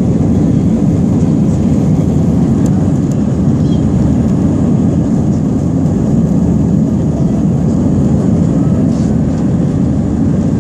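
Airbus A320 jet engines running at high thrust during takeoff and climb, heard from inside the cabin as a steady, deep, even rumble.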